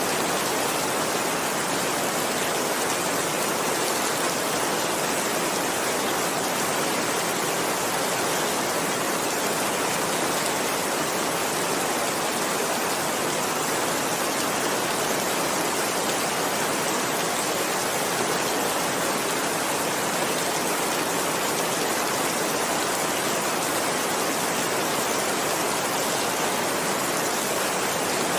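Heavy rain falling steadily. It makes a dense, even hiss with no breaks or rumbles of thunder.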